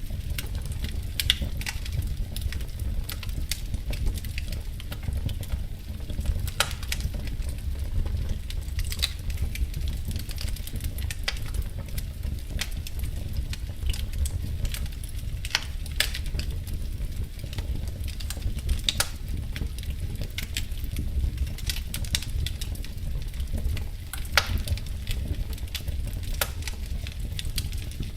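Wood fire crackling in a fireplace: a steady low rumble of flame with a constant scatter of small crackles and, every few seconds, a louder sharp pop.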